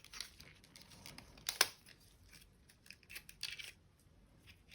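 Small clicks and scraping of plastic parts as the LEDs are worked loose from a disassembled computer mouse, with one sharp click about one and a half seconds in and a short run of small clicks near three seconds.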